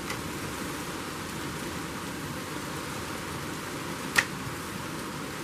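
Heavy rain pouring down outside, a steady hiss heard through an open window, with one sharp click about four seconds in.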